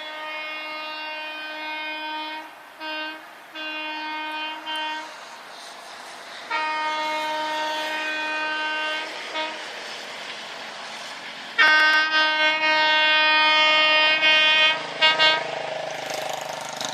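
Train horn sounding in a series of blasts, long and short: one steady pitch held for a few seconds at a time, with brief toots in between. The longest and loudest blast comes a little past the middle and ends in two quick toots.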